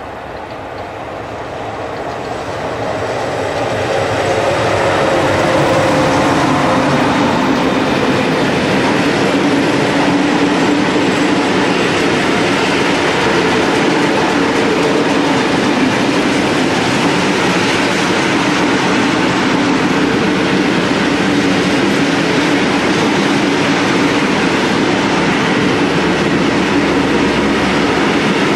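DB Class 151 electric locomotive hauling a long freight train of open wagons past, the noise of wheels on rails growing louder over the first few seconds and then staying steady as the wagons roll by.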